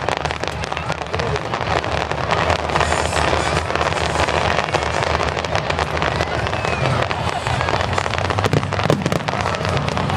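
Fireworks finale barrage: many shells bursting in rapid, continuous succession, a dense crackling and banging with no pause.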